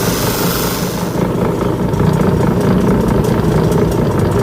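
Motor of a lapidary cabbing machine running steadily, with a high hiss of a stone being worked against the spinning wheel that stops about a second in.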